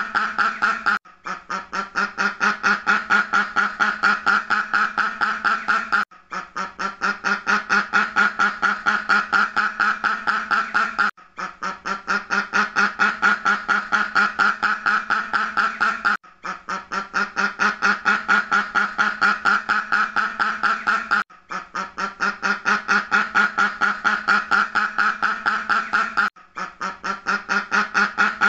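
Duck quacking in a rapid, unbroken run of quacks, about four or five a second, with a brief pause every five seconds or so.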